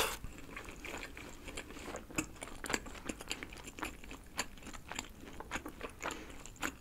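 A bite into a slice of thin-crust pepperoni pizza, loudest right at the start, followed by close-miked chewing made of many small clicks and crunches.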